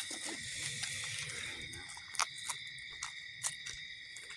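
Crickets trilling in a steady night chorus, with a few short, faint clicks scattered through it.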